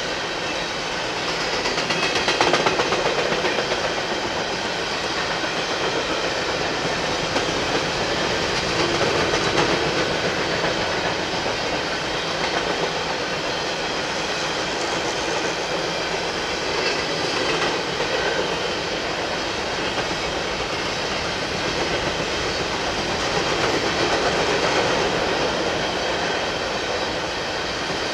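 Freight train of hopper cars rolling past, its steel wheels on the rails making a steady running noise that swells slightly a couple of seconds in and again near the end.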